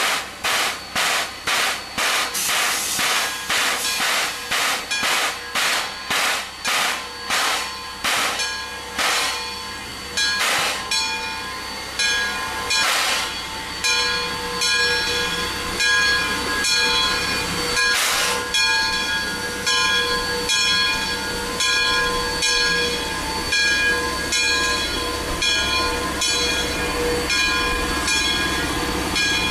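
Two-truck Shay geared steam locomotive getting under way: quick, even exhaust chuffs that speed up and run together as it gains speed. A steady high ringing tone joins in about halfway through.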